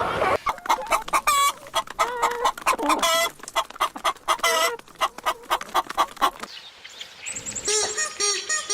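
Chickens clucking in a quick, irregular series of short calls. Near the end a run of evenly repeated, higher calls begins, about three a second.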